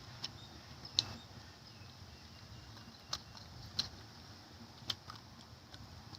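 A handful of sharp clicks and light taps at irregular intervals, over a faint steady hiss.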